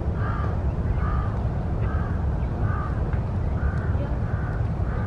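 A bird calling over and over, short calls repeated roughly every half second to a second, over a steady low rumble.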